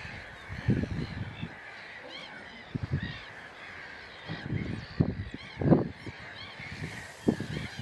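A chorus of many gulls calling over one another, with irregular low rumbling bursts underneath.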